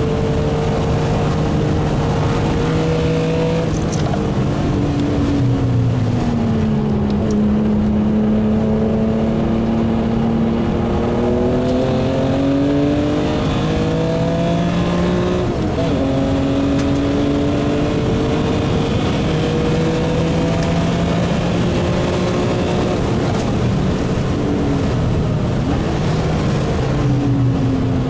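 BMW E36 M3 Evo's S50B32 straight-six engine running hard on track, its pitch climbing and falling repeatedly as it revs up and drops back, with a sharp drop about sixteen seconds in.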